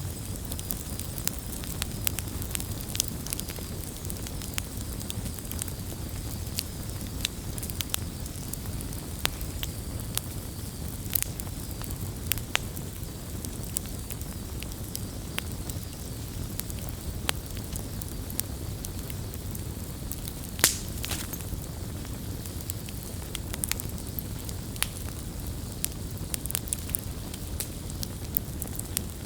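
Campfire burning, with frequent sharp crackles and pops over a low steady rumble; one louder pop about two-thirds of the way through.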